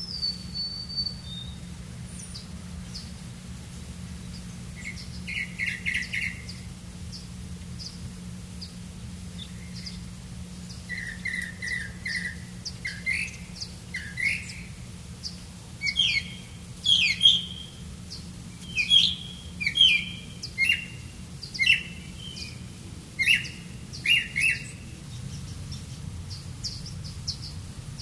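Birds chirping: short repeated chirps, sparse at first and then coming in a louder, quicker series through the second half, with fainter high ticking calls throughout. A steady low hum runs underneath.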